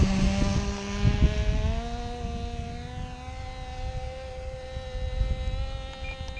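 Norvel .061 glow engine on a small RC model airplane running at high throttle: a steady buzzing drone that slowly rises in pitch and grows a little fainter. The owner says the engine is running rich. A few faint short beeps come near the end.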